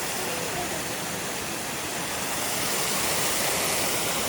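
Mountain stream rushing steadily over rocks, a constant full rushing noise.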